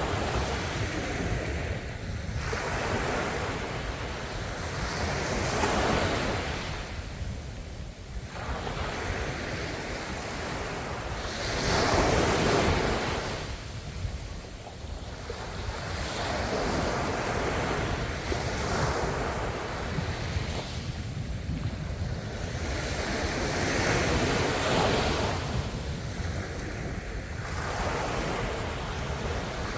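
Ocean waves breaking and washing up the shore, a continuous rush that swells and falls back every few seconds, with one larger wave about twelve seconds in.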